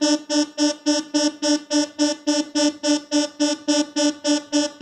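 ARP Odyssey analog synthesizer sounding one buzzy note that pulses evenly about three and a half times a second. Its pitch comes from the keyboard control voltage held on capacitor C8, which is leaking away so that the note drifts lower; this is the fault being tested with freezer spray on C8.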